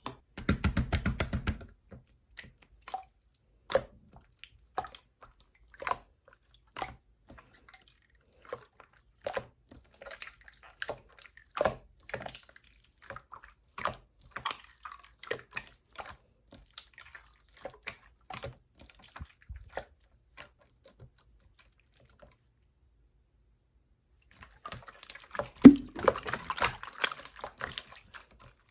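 Clear slime being worked by hand, giving sticky clicks and small air-bubble pops. A fast run of clicks comes in the first two seconds, then scattered single pops, then a brief lull and a denser stretch of crackling squishes near the end.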